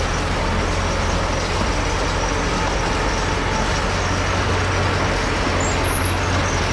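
Heavy diesel earthmoving machinery running steadily: a continuous deep engine drone with an even mechanical rumble over it.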